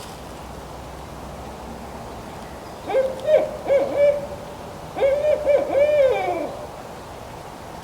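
Barred owl hooting: two phrases of several rich hoots about a second apart, the second trailing off in a falling drawl at its end.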